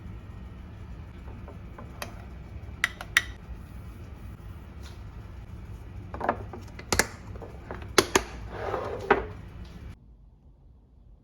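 Kitchen utensils and dishes knocking and clinking in separate sharp taps, with a short scraping rustle near the end, over a steady low hum that cuts off about ten seconds in.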